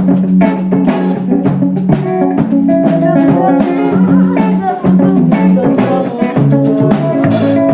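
A band playing an instrumental passage of a rock song on electric guitar, bass and drum kit, with a regular beat.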